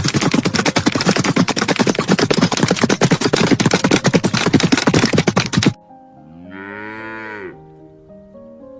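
A loud, dense, rapid clatter that cuts off abruptly a little under six seconds in, then a cow mooing once, a long call that rises and falls in pitch, over soft background music.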